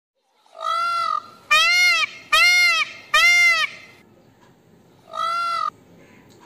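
Peacock (Indian peafowl) calling: five loud, short, rising-then-falling calls, four in quick succession and one more after a short pause.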